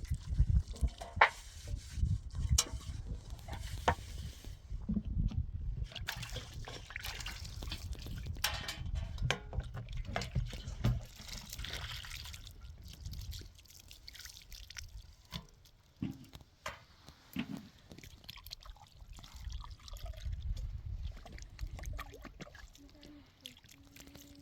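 Water being handled, splashing and dripping, with many short clicks and knocks. A low rumble runs under the first half, then fades.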